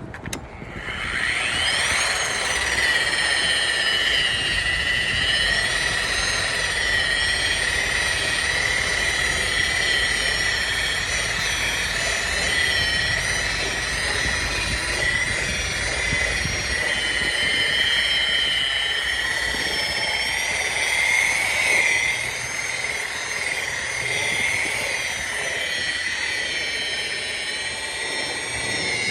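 Electric wheel polisher spinning up about a second in, then running on a semi truck's chrome wheel with a steady high whine that wavers slightly in pitch.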